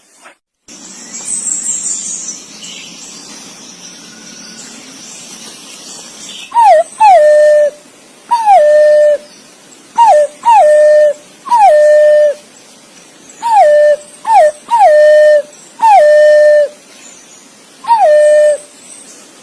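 Punai (green pigeon) calling: a series of clear whistled notes, each sliding down in pitch and then held, repeated about once a second from about six seconds in, some in quick pairs. Before the calls there is only a faint high falling sound over a low hum.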